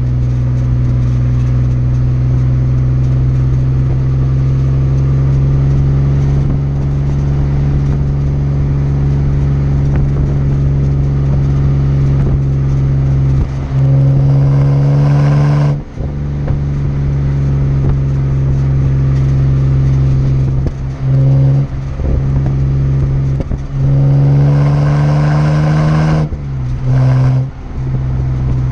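BMW 330i's 3.0-litre straight-six running through a Rogue Engineering aftermarket exhaust, giving a steady deep drone. The note drops away briefly several times and, near the end, climbs in pitch before falling off.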